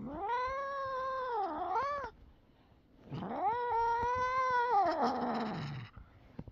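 Domestic cat yowling twice in long, drawn-out wails, each rising, holding and falling in pitch: the protest of an upset cat that the owner calls 'so traumatized' while trying to hold him up to the camera.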